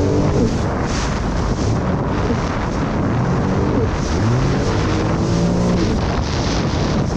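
Jet ski engine running under way, its pitch rising and falling several times as the throttle is worked, with wind buffeting the microphone.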